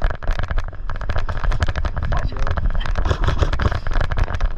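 Rapid, irregular clicks and pops of airsoft guns firing, several shots a second.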